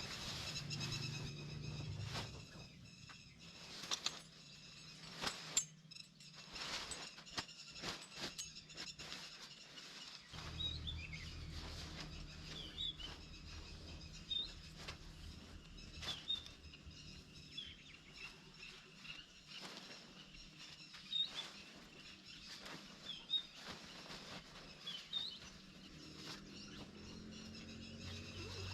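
Forest ambience: short bird chirps every second or two over a steady high buzz, with scattered sharp taps and knocks.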